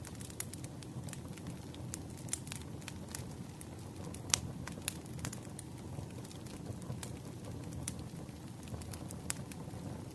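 Campfire burning: a steady low rumble of flames with irregular sharp crackles and pops of burning wood, one louder pop a little after four seconds in.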